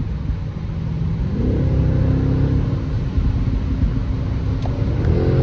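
2025 BMW X6M's 4.4-litre twin-turbo V8 under acceleration over a steady low drone: its note climbs in pitch about a second in, holds, eases off, then climbs again near the end.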